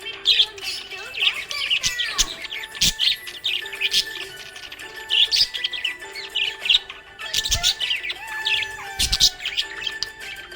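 Budgerigars chirping and warbling in quick runs of short, high notes, with steady held tones underneath.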